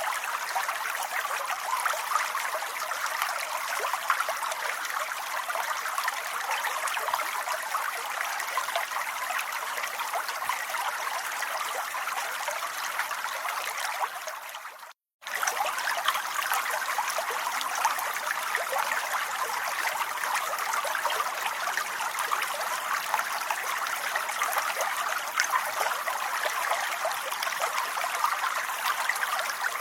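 Steady rain: an even hiss of dense, fine drops. About halfway through it fades out for a moment and cuts straight back in.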